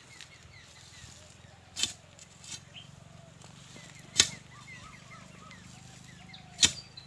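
An iron digging bar striking into hard earth three times, about two and a half seconds apart, while a pit is dug for wild tubers. Faint bird chirps are heard between the strikes.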